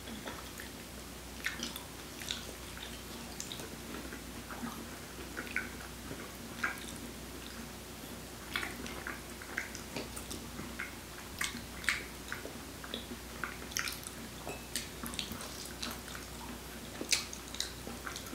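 People eating soft durian flesh: wet chewing and lip smacks, with scattered light clicks of forks on plates, over a faint steady hum.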